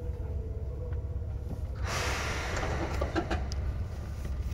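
Seibu 2000 series electric train running, heard from above the under-floor line breaker: a steady low rumble with a faint whine that fades in the first second. About two seconds in, a sudden hiss starts and dies away over about a second, with a few clicks.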